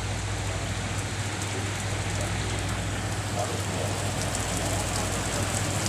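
Steady rain falling on a ferry's open steel deck, a dense even hiss, with a steady low hum underneath.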